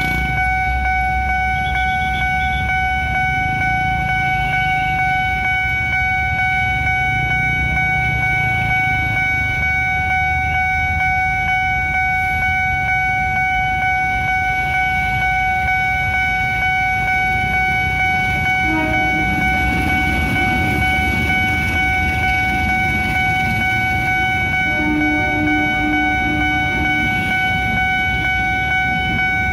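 Railway level-crossing warning siren sounding as one steady, unbroken tone over the low rumble of trains passing. A train horn sounds briefly about two-thirds of the way in, then gives a few short toots near the end.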